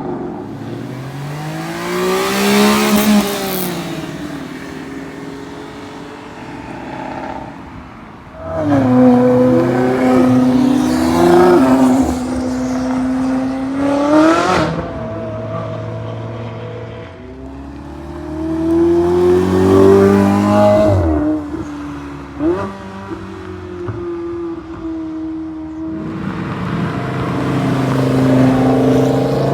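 Performance car engines and exhausts, one after another, accelerating hard past the listener. Each engine's pitch climbs and then drops with gear changes and as the car goes by. The loudest pass comes about nine to fourteen seconds in, with another strong one around twenty seconds.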